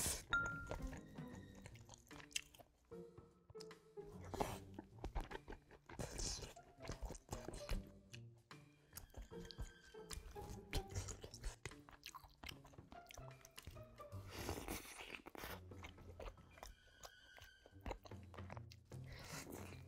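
Close-miked eating: chewing and biting into pieces of braised spicy chicken, with frequent crunches and wet mouth sounds. Soft background music plays underneath.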